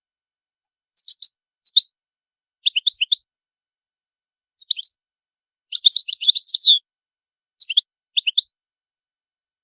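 European goldfinch singing: short bursts of quick, twittering notes with silent gaps between them, and a longer, denser run of notes about six seconds in.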